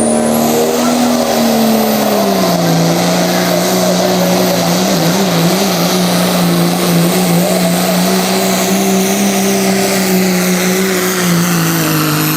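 Turbocharged diesel pickup engine at full throttle pulling a sled, with a very high turbo whistle over the engine note. The engine's pitch drops about two seconds in as the load comes on, holds steady, and begins to sag near the end.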